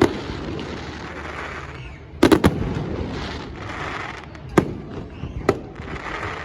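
Fireworks exploding overhead: a quick cluster of sharp bangs about two seconds in, then two single bangs near the end, with a noisy crackle and hiss of burning stars in between.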